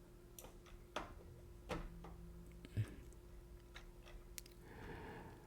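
A few faint, sharp clicks scattered over a low steady hum, the clearest about a second in, near two seconds in and near three seconds in, with a soft breathy rustle near the end.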